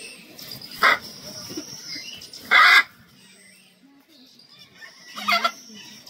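Loud, harsh bird calls: three short squawks a couple of seconds apart, the middle one longest and loudest, over a faint steady high-pitched tone.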